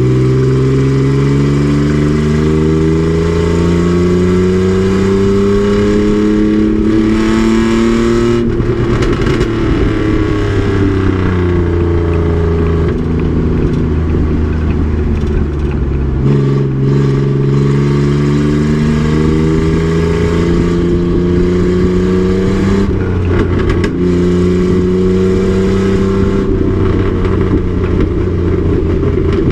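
A race truck's engine under hard acceleration: the pitch climbs steadily for about eight seconds, drops as the driver lifts off, then climbs again through gear changes, dipping briefly twice near the end.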